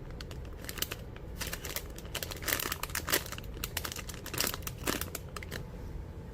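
Plastic packaging crinkling on and off as it is handled, busiest between about one and a half and three seconds in.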